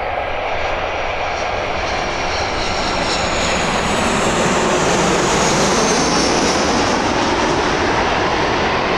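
Airbus A320's CFM56 jet engines running as the airliner moves past: a steady jet roar that grows louder about four seconds in, with a faint high whine sliding slightly down in pitch.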